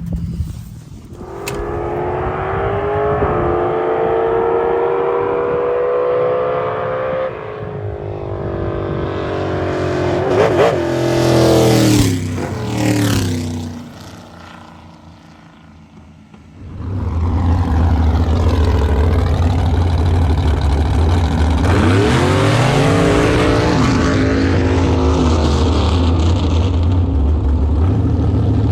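Street drag race launch: engines at full throttle, climbing in pitch for several seconds with a gear shift about seven seconds in. The vehicles then pass loudly around 10 to 13 seconds and fade. From about 17 seconds a loud, steady, low engine drone takes over.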